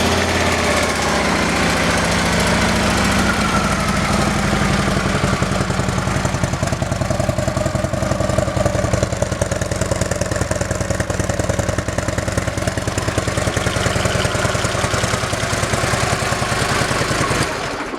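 2012 Harley-Davidson CVO Road Glide Custom's 110 cubic inch air-cooled V-twin idling just after being started, with an even pulsing exhaust beat. It is shut off shortly before the end.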